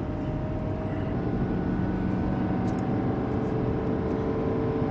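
Ford pickup's engine held at full throttle while pulling a heavy trailer up a steep grade in a low gear, heard from inside the cab as a steady drone that creeps slightly up in pitch.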